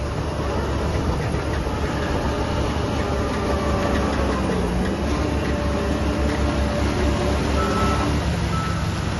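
Diesel engines of heavy earthmoving machinery running steadily, a low rumble with engine pitch that rises and falls. Near the end a reversing alarm starts beeping about once a second.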